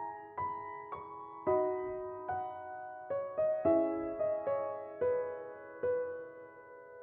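Gentle solo piano background music, single notes played one after another, each ringing out and fading.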